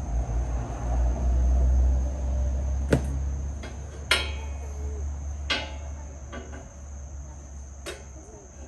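Several sharp metal clanks and knocks, a few with a short ring, as the steel motor plate and go-kart frame parts are handled and set against each other, over a low rumble in the first couple of seconds. A steady high chirring of crickets runs behind.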